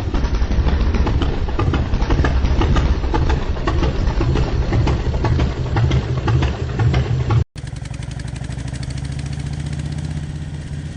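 Harley-Davidson Road King's V-twin engine running loud and uneven, then, after a sudden cut about seven and a half seconds in, idling steadily.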